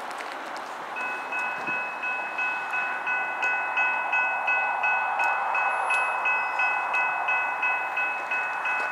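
Railway level-crossing warning bell starting up about a second in and ringing steadily at about three strikes a second: the crossing has been activated for an approaching train. Light wind noise underneath.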